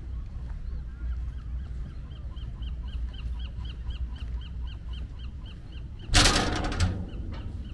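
Outdoor birdsong: a small bird repeats a short high chirp about four times a second. About six seconds in, a loud, harsh bird call lasts under a second. A steady low wind rumble runs underneath.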